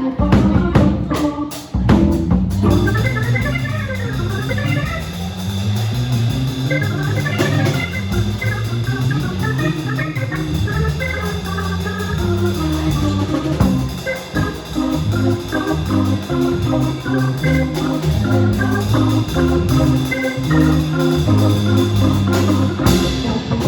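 A band playing an instrumental passage: held organ-like keyboard chords over a moving bass line, with drum hits only in the first couple of seconds.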